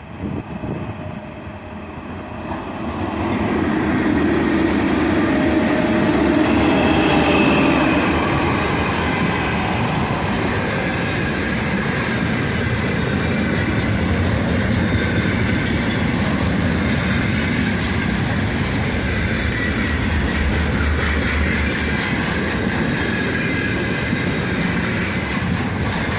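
Container freight train hauled by a 3ES5K 'Ermak' electric locomotive going past on the line. The noise swells sharply about three seconds in, then the wagons roll by steadily with wheel-on-rail clatter.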